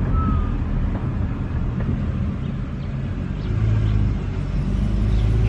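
Car engine and road noise heard from inside the cabin on a slow climb up a winding road: a steady low hum that grows louder about three and a half seconds in.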